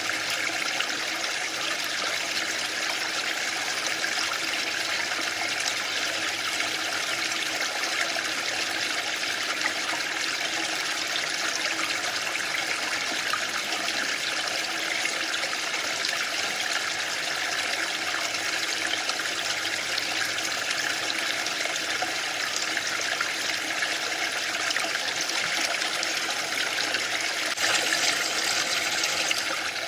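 Waterfall: a steady, unbroken rush of falling water, getting slightly louder and brighter for the last couple of seconds.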